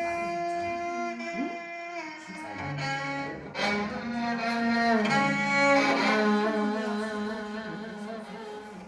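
Music played on bowed string instruments: several held notes with vibrato overlap and slide slowly between pitches.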